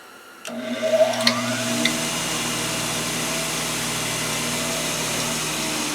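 An old bench grinder switched on about half a second in: its motor whine rises as the wheels spin up, then runs steadily at speed.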